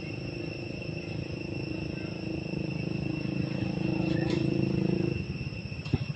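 Insects droning steadily in a high, even pitch, over a low rumbling hum that grows louder and cuts off about five seconds in.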